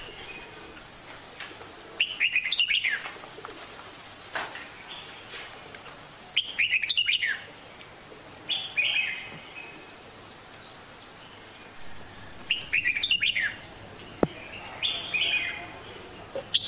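A bird chirping in about five short bursts of quick high notes, a few seconds apart. Two sharp clicks stand out between them, the louder one near the end.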